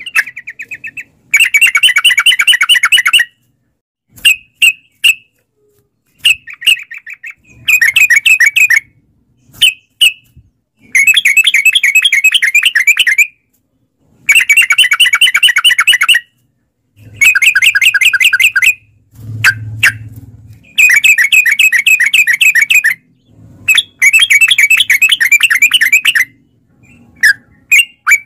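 Yellow-vented bulbul (trucukan) singing: repeated loud phrases of rapid chattering notes, each about two seconds long, with short single notes and brief pauses between them. A faint low hum comes in briefly past the middle.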